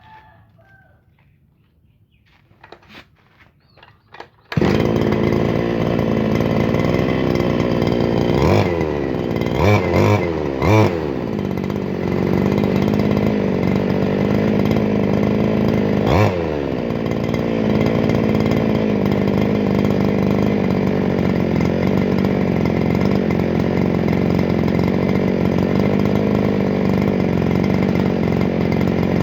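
Two-stroke engine of a 411 brush cutter starting about four and a half seconds in and then running steadily on its newly replaced carburetor. The throttle is blipped a few times around ten seconds in and again near sixteen seconds, with the pitch rising and falling each time.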